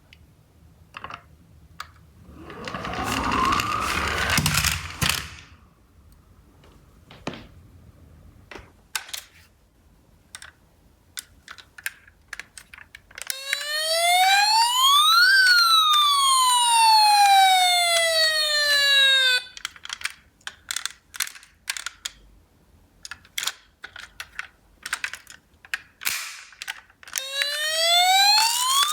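Electronic siren of a toy emergency-vehicle minicar, one slow wail rising and then falling midway, with a second wail starting near the end. Small plastic clicks and clatters of the toy cars are heard throughout, with a brief rising whir a few seconds in.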